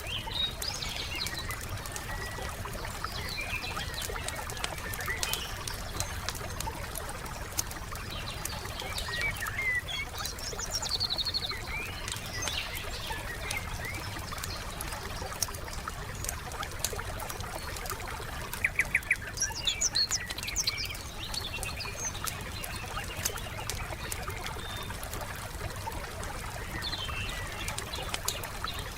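Wood campfire crackling with frequent small pops over a steady low rumble, while songbirds chirp and trill now and then. A quick run of louder sharp clicks comes a little past the middle.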